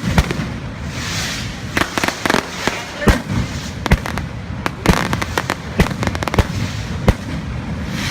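Festival fireworks going off: loud sharp bangs at irregular intervals, about one or two a second, over a continuous fizzing crackle.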